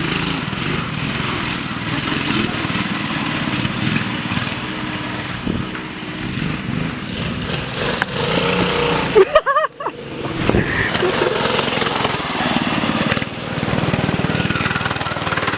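Small single-cylinder minibike engines running while riding, their pitch rising and falling with the throttle. There is a brief loud burst and a momentary dropout about nine seconds in.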